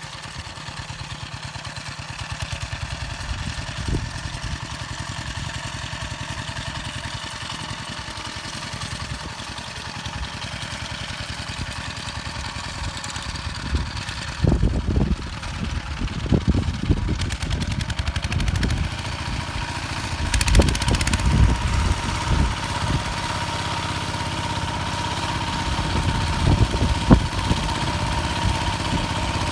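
Engine of a home-built motor-tractor converted from a walk-behind tractor, running steadily with an even pulse. About halfway through, irregular heavy thumps and knocks join in. From about two-thirds in it runs louder, with a steady high whine.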